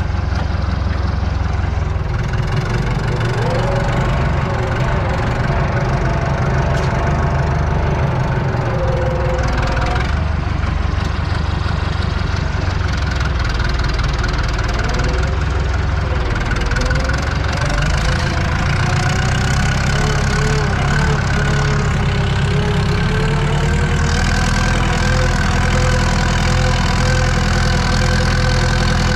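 Diesel tractor engine running continuously under load while cultivating, heard from inside the cab. Its pitch wavers a little, then holds steady near the end.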